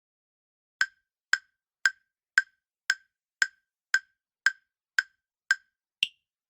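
Quiz countdown timer sound effect: eleven short, even wooden ticks, about two a second. The last tick is higher-pitched and marks the end of the countdown.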